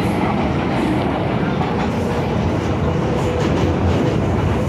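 MTR Kwun Tong Line M-Train electric multiple unit running between stations, a steady rumble with wheels clattering over the track, heard from inside a car.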